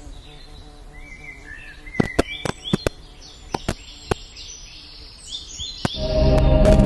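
Birds chirping in short, repeated high calls, with a few sharp clicks scattered among them. About six seconds in, louder ambient music with held tones comes in and covers them.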